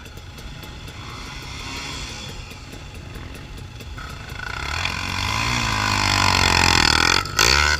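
Off-road trail motorcycle engine, low at first, then growing louder from about four seconds in as it revs up and down, loudest near the end.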